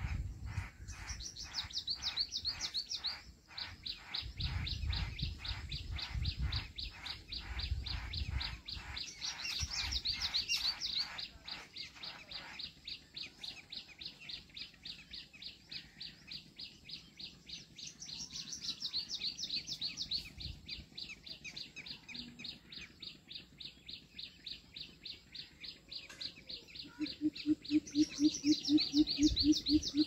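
Birds chirping: a fast, steady run of high chirps repeated several times a second, with a low, quick series of hoots near the end.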